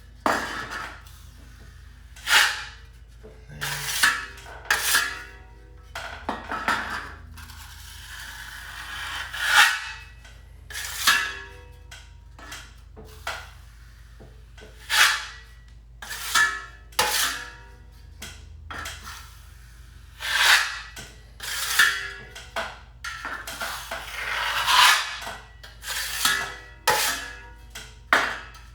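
Wide steel drywall finishing knife scraping joint compound across a ceiling patch, a skim coat being feathered out in repeated strokes, about one a second.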